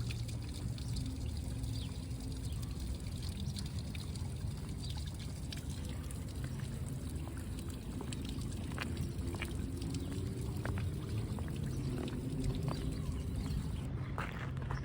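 Water running and splashing steadily, with a constant low hum and scattered light clicks.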